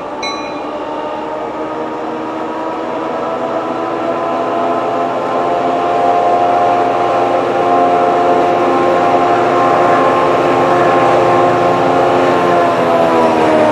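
Passenger train's horn held in one long chord, growing louder as the train approaches, then dropping in pitch near the end as the train passes.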